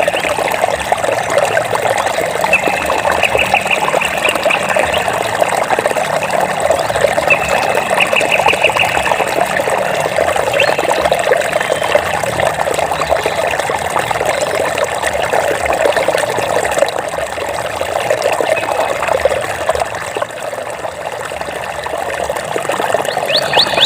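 Water trickling and bubbling steadily, a dense patter of small splashes. Two short, high, rapid trills come in over it in the first few seconds.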